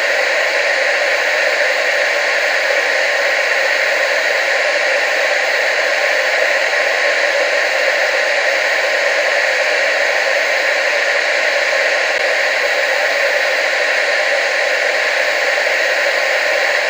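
Steady TV static hiss, strongest in the upper-middle range with almost no low end, unchanging throughout.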